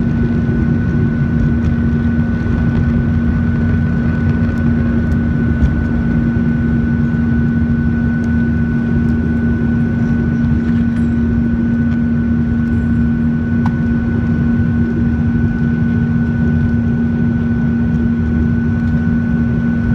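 Boeing 737-900's CFM56-7B jet engines running steadily during takeoff, heard from inside the passenger cabin: a constant rush of noise with a steady low hum and a fainter, higher whine.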